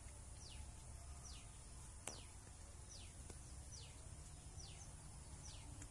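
Faint bird calls: a short high whistle falling in pitch, repeated about once a second, over a faint low rumble.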